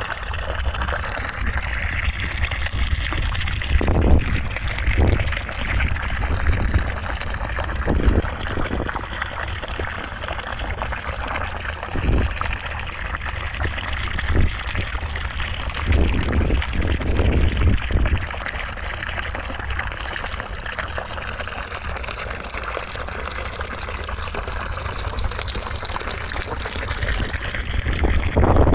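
Continuous white noise: a steady rushing hiss with a deep rumble underneath, the hiss slowly wavering, and a few brief swells in the lower middle.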